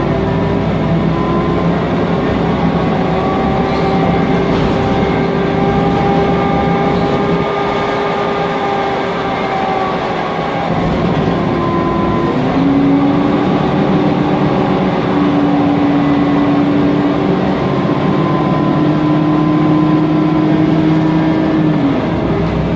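Mercedes-Benz Conecto CNG city bus under way, heard inside the bus. Its M936G engine and Voith DIWA automatic gearbox give a steady running noise with a whine that drifts slowly in pitch with speed. The whine steps down about halfway through and again near the end, over a constant hum and the noise of the cooling fan.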